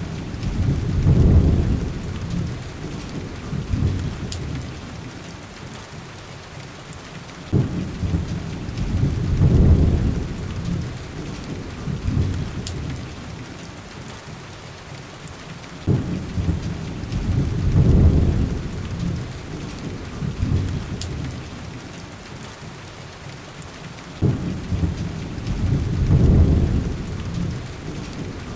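Heavy rain hissing steadily, with rolling thunder rumbles that recur about every eight seconds, four times in all, each starting with a sudden crack and swelling for a couple of seconds before fading back into the rain. A few faint sharp ticks sit over the rain.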